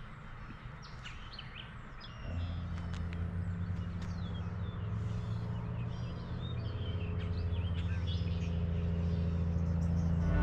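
Several birds chirping and calling. A low steady hum comes in about two seconds in and slowly grows louder beneath the birdsong.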